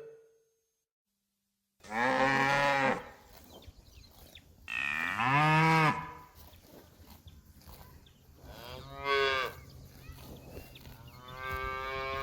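Cattle mooing: four separate drawn-out moos, each about a second long and rising then falling in pitch, the first about two seconds in after a silent gap.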